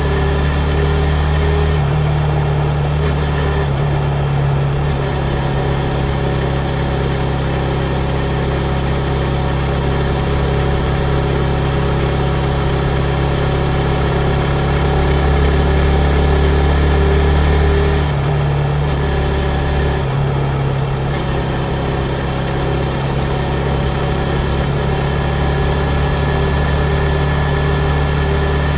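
Yamaha MT-15's 155 cc single-cylinder engine running in street riding, mostly at a steady low pitch. Its note shifts a few times as the throttle changes, swelling a little and then dropping off sharply about two-thirds of the way through.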